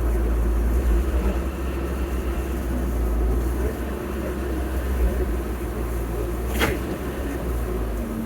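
Engine of heavy earthmoving machinery (excavator or dump truck) running with a steady low rumble. There is a single sharp metallic clank about six and a half seconds in.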